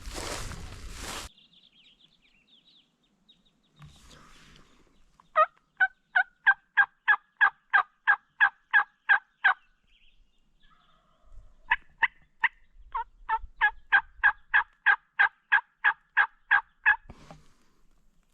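Turkey yelping: two long runs of evenly spaced yelps, each note breaking from high to low, about three or four a second, with a short pause between the runs. A brief rustle comes in the first second.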